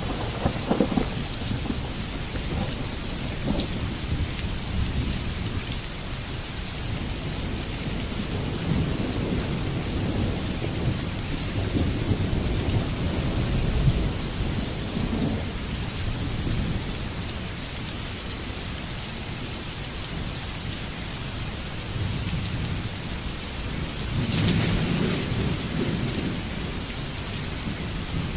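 Heavy rain falling steadily, a constant hiss, with low rolling thunder that swells near the start, about halfway through and near the end.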